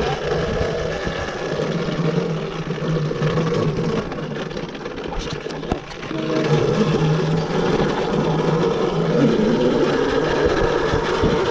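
Electric dirt bike's motor giving a steady whine, which briefly dips about six seconds in and then resumes, with wind rumbling on the microphone.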